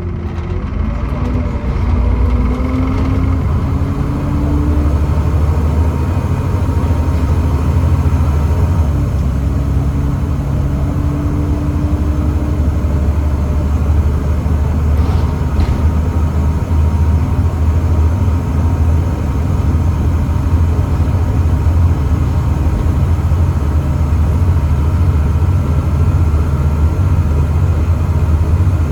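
Volvo B7TL double-decker bus's Volvo D7C 7.3-litre diesel engine running with a steady low drone. A tone rises in pitch in the first few seconds as the bus accelerates through its ZF Ecomat automatic gearbox.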